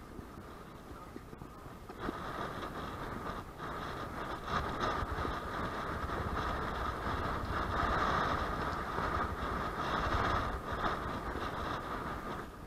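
A vehicle passing: a steady rushing noise with a low rumble and a faint hum, coming up about two seconds in and dying away near the end.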